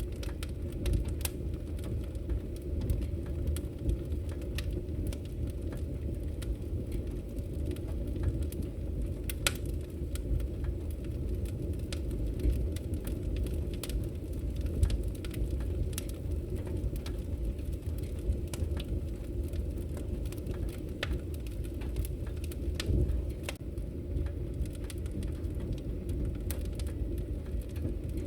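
Wood fire crackling in a fireplace: a steady low rumble of burning logs with frequent small sharp pops and crackles scattered throughout.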